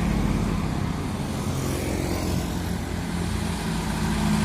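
Heavy truck's diesel engine running under load, a steady low drone.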